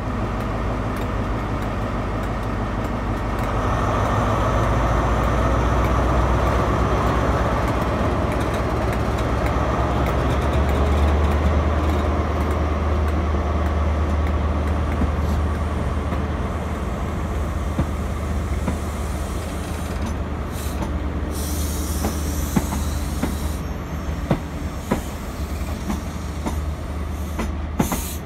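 Diesel train running, its engine droning steadily and growing louder a few seconds in. Late on there is a brief high squeal, then sharp clicks of wheels over rail joints.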